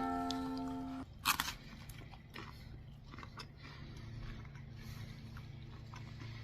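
A strummed plucked-string chord rings on and cuts off about a second in, then a crunch and quiet chewing as homemade raspberry jam is eaten, over a low steady hum.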